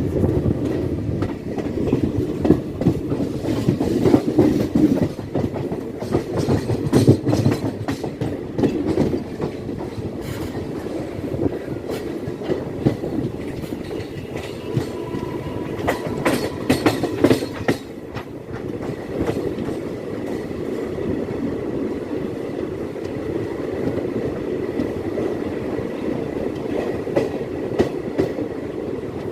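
Express train's coaches rolling over a railway bridge: continuous rumble with rapid clickety-clack of wheels over rail joints, a little louder in the first half.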